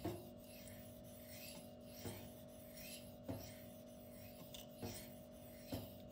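M390 steel folding-knife blade stroked dry across a Spyderco fine ceramic sharpening stone: faint rubbing, with about five short strokes a second or so apart.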